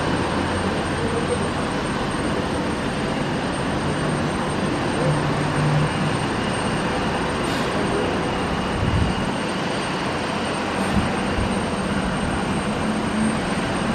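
Steady roar of jet airliner engines, with a couple of brief low thumps about two-thirds of the way through.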